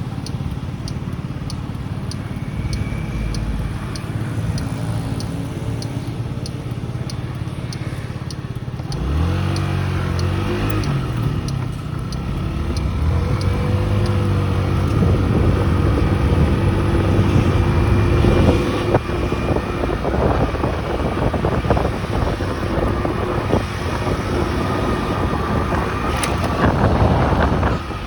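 Small motorcycle engine running steadily at low revs with a light ticking about twice a second. About nine seconds in it pulls away, its pitch rising and dropping back as it changes up through the gears, then it runs louder under way.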